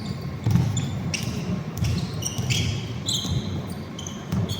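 Basketball game in play on an indoor court: the ball thumping as it bounces, with many short, high squeaks from sneakers on the floor. The loudest thump comes about half a second in.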